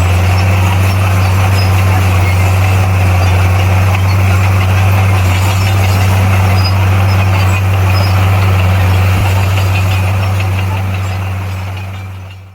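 Komatsu D58P bulldozer's diesel engine running at a steady, even speed with a constant low drone. It fades out over the last couple of seconds.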